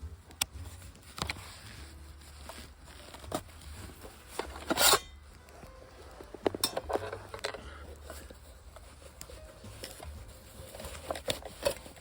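Camp cookware and metal gear being handled: scattered clinks and knocks, with a short louder burst of noise about five seconds in.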